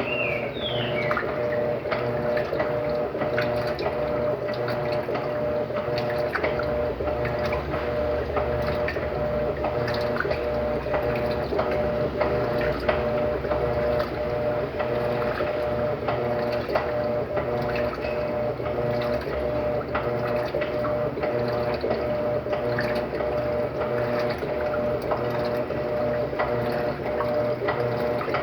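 Electrolux LTD13 top-loading washing machine running its first rinse: a steady hum with water running inside the tub.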